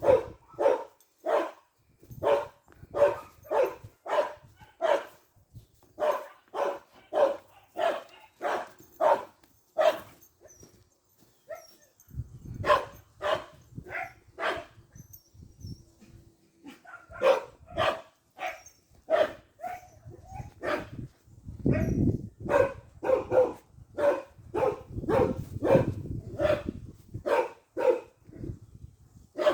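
A dog barking over and over, about two barks a second, with a couple of short pauses.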